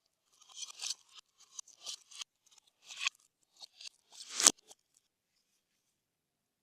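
Slime being squeezed and kneaded by hand: a run of short, wet crackles and pops over about four seconds, the loudest a sharp pop near the end, then stillness.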